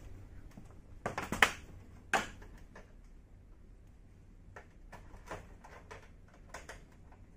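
A few sharp clicks and knocks from handling the air conditioner and its power plug, the loudest about two seconds in, followed by scattered fainter clicks.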